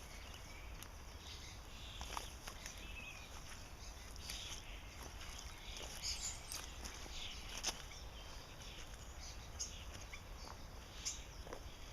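Outdoor ambience with scattered short bird chirps and a few soft clicks over a steady low rumble.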